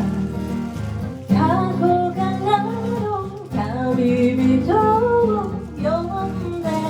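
A female singer sings a Japanese pop melody live over guitar accompaniment, with phrases starting about a second in and again near the middle.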